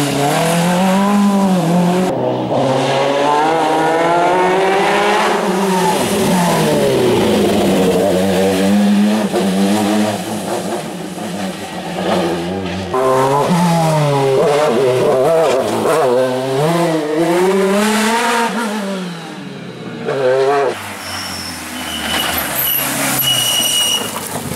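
Rally cars on a closed stage, engines revving hard with repeated rises and sudden drops in pitch as they change gear. Two loud passes come one after the other with a quieter gap between them. A few short high-pitched tones sound near the end.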